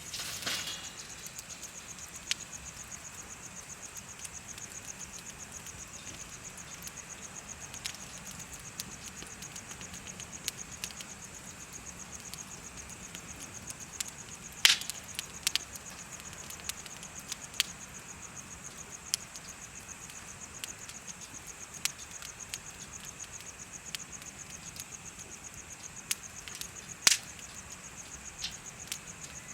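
Wood fire crackling with scattered sharp pops, the loudest about 15 and 27 seconds in, over steady, high, fast-pulsing insect chirping.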